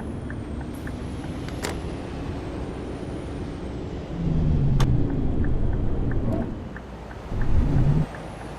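Scania K420 double-decker bus on the move, its engine and road noise running steadily under a light ticking about twice a second. About four seconds in the sound grows louder with falling pitch for a couple of seconds, and a short louder burst comes near the end.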